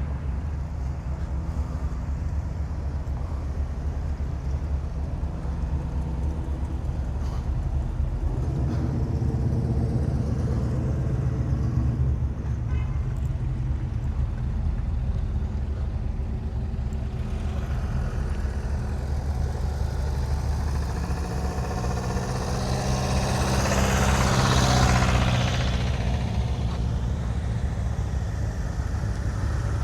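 A car engine running slowly and steadily at low revs. A louder swell of engine and road noise builds and fades about three-quarters of the way through, like a vehicle passing close.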